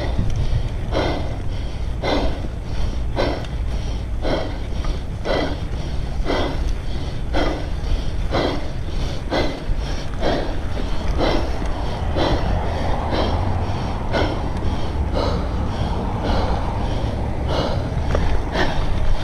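Heavy, rhythmic breathing of a cyclist under exertion, about one breath a second, over a steady low rumble of wind on the microphone.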